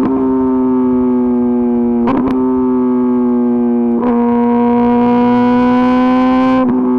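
Kawasaki ZX-10RR's inline-four engine running at high revs through an Arrow Pro-Race exhaust: a loud, steady, buzzing note whose pitch creeps slowly, broken by brief dips three times, as at gear changes or throttle lifts.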